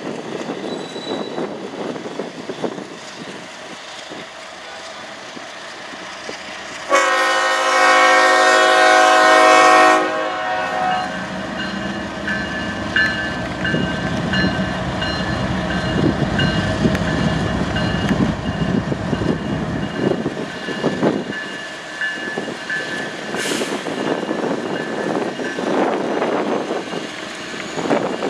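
A train sounds its multi-note horn in one loud blast of about three seconds, some seven seconds in. It then rolls past with a low rumble and the clatter of wheels over the rails.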